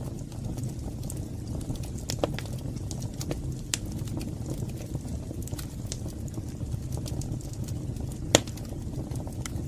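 Wood fire burning in a fireplace: a steady low rumble of flames with scattered sharp crackles and pops, the loudest pop about eight seconds in.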